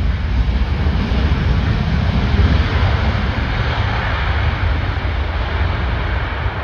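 Jet airliner arriving to land, its engine noise swelling to a peak about halfway through and then easing, over heavy wind buffeting the microphone.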